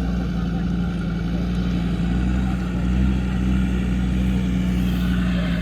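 Land Rover Discovery's engine running hard and steady under load as the 4x4 climbs a very steep off-road slope.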